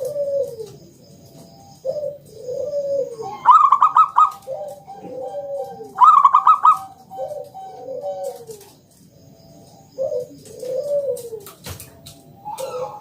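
Zebra dove (perkutut) singing: repeated low, rounded cooing phrases. Twice, about three and a half and six seconds in, a louder, quick run of higher notes comes in. A single sharp click sounds near the end.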